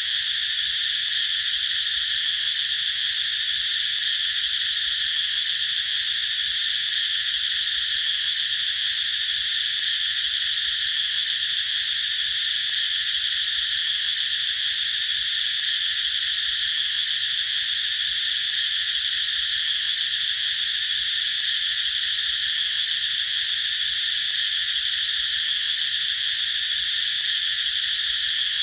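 Cicadas singing in chorus: a steady, unbroken high-pitched buzz that holds one level throughout.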